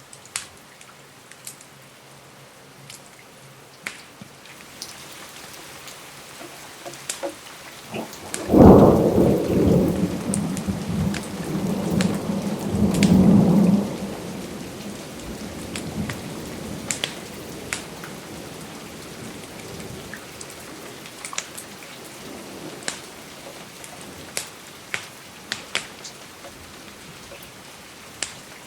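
Steady rain with scattered sharp fireplace crackles. About eight seconds in a thunderclap breaks and rumbles for about five seconds before fading.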